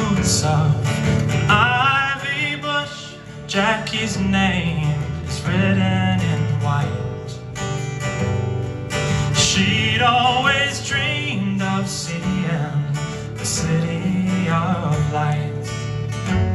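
Live band music: acoustic guitar strumming steadily under a wavering sung melody.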